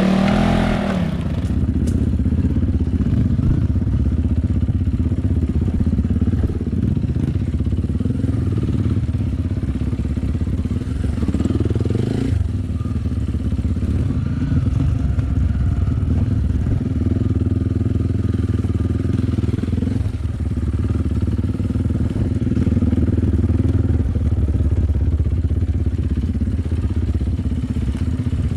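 Enduro dirt bike engine running steadily on a trail ride, its pitch rising and falling a little with the throttle.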